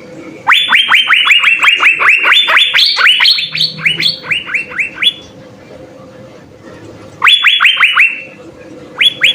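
Asian fairy-bluebird (cucak biru) singing: a rapid run of loud, downward-sliding notes, about five a second, lasting some four and a half seconds, then a shorter run about seven seconds in and a brief burst near the end. A faint steady hum lies underneath.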